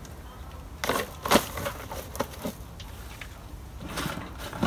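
Kindling and firewood being handled for a campfire: a string of short, sharp cracks and rustles, the loudest about a second and a half in.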